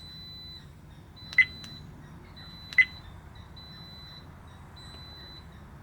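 Two short, high electronic beeps about a second and a half apart from a Redtiger dash cam, the confirmation tones of its menu buttons being pressed. A faint steady high whine sits under them.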